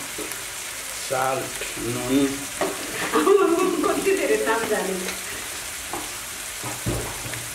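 Onions, tomatoes and masala sizzling in a nonstick frying pan. A person's voice sounds over the sizzle for a few seconds in the middle.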